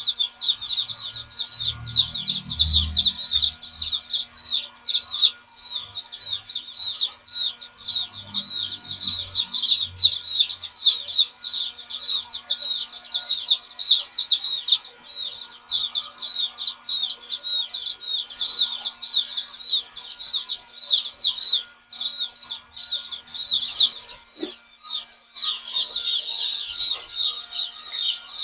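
A crowd of young chicks peeping, many short, high, downward-sliding calls overlapping without a break.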